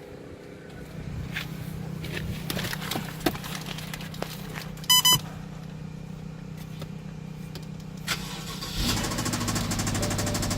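Two short electronic beeps about halfway through, then near the end a 2012 BMW 650i's twin-turbo V8 starts and runs with a fast, diesel-like clatter. This is the engine knock the car is shown for.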